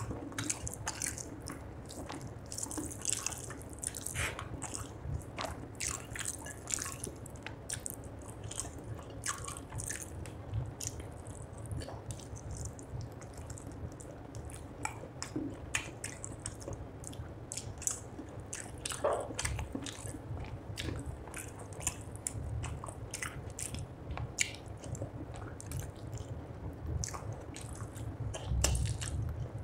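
Close-miked eating sounds of a person eating rice and fish curry by hand: chewing and lip smacks, a steady run of short mouth clicks, with the hand working the rice on the plate.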